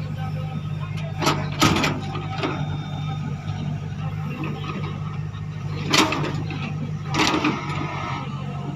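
Tractor engine running steadily with a low hum, broken by four sharp knocks or clanks, two close together in the first couple of seconds and two more later on.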